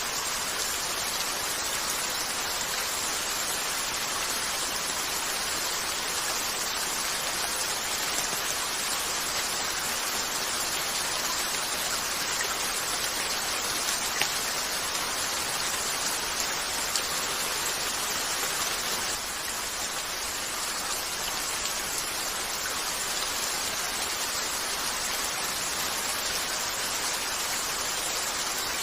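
Steady rain pattering on a window, with a few soft crackling pops from a wood fire in a fireplace.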